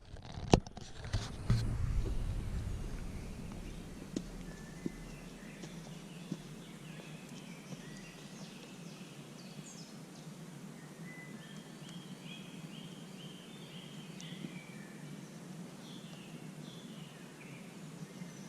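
Outdoor ambience with birds singing: scattered high chirps and one quick run of repeated notes. It opens with a few sharp knocks and a brief low rumble.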